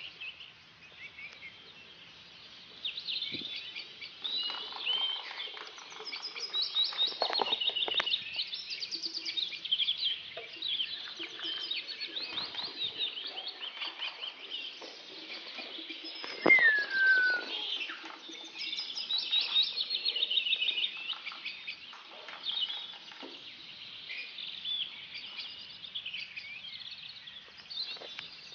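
Birds chirping and twittering in quick, high calls throughout, with one loud falling whistle about sixteen seconds in.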